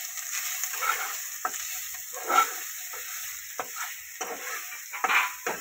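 Ginger paste and whole spices sizzling in hot oil in a kadai, with a steel spatula stirring and scraping the pan in irregular strokes; one stroke about halfway through is louder than the rest.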